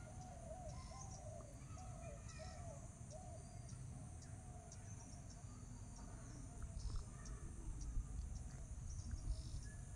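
Faint background sound: short chirps repeating through the first few seconds, like distant birds, over a low rumble, with a few soft bumps in the last few seconds.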